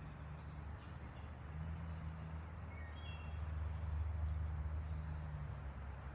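Steady low background drone that swells in the middle, under a faint high steady hum and a few brief high chirps about three seconds in.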